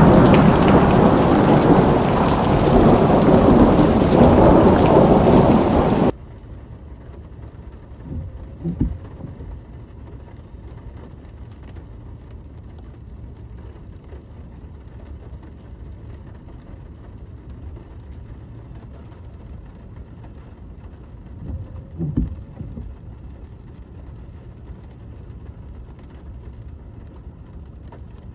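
Heavy rain pouring, cutting off abruptly about six seconds in to a much quieter steady rain hiss. Two short low rumbles of thunder follow, one a few seconds after the cut and one again past the middle.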